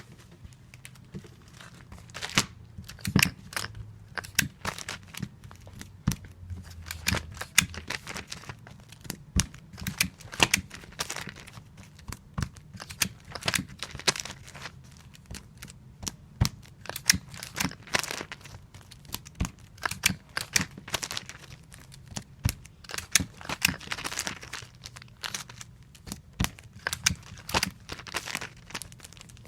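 Adhesive tape pulled off a tape dispenser and torn off, over and over, while comic books are being taped. A dense, irregular run of quick tearing and rustling strokes.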